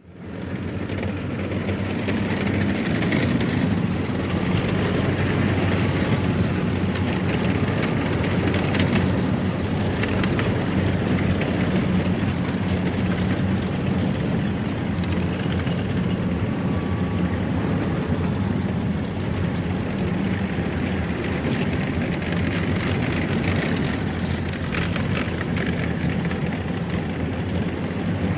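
A convoy of armored personnel carriers running past, with a continuous heavy diesel engine rumble that stays steady throughout, and intermittent metallic clanking and squeaking.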